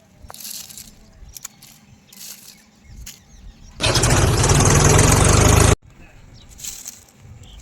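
Quiet rustles and small clicks, then about four seconds in a loud tractor-engine sound starts abruptly and runs for about two seconds before cutting off suddenly.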